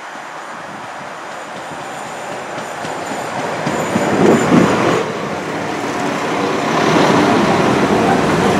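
London Midland Class 172 Turbostar diesel multiple unit drawing into the platform, its rumble and wheel noise growing louder as the cab passes close by about four seconds in. Steady humming tones join the rumble near the end as the carriages roll past.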